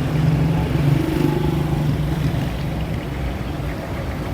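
A motor vehicle's engine running steadily, a low drone with road and street noise around it.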